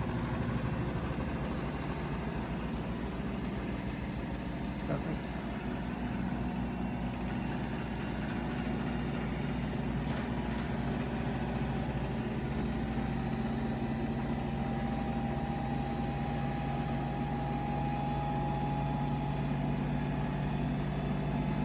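Bosch washing machine running its high-speed spin: a steady motor-and-drum hum with a faint whine that rises slowly in pitch partway through as the drum speeds up.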